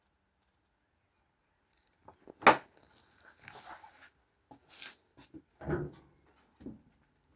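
A sharp clack about two and a half seconds in, then scraping and rustling and two dull thumps; no engine running.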